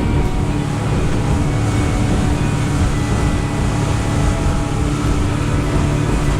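Fishing boat's engine running steadily, a continuous low rumble with a steady hum.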